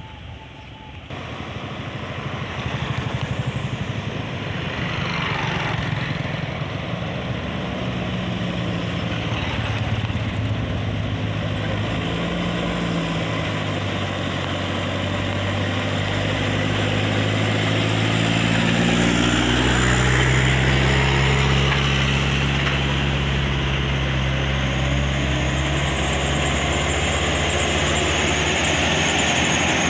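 Engine of a sand-laden truck pulling hard up a steep hill. The pitch shifts up and down and rises partway through, and it grows louder from about a second in as the truck comes closer.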